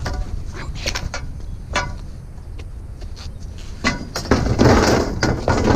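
Scattered metal clinks and knocks from handling the steel tubes and springs of a taken-apart trampoline, then about four seconds in a loud clattering rattle lasting about two seconds as the metal parts are moved together.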